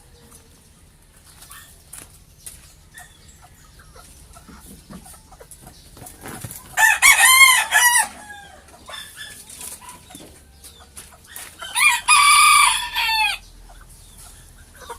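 Bantam rooster crowing twice, each crow lasting about a second and a half, the second coming about five seconds after the first.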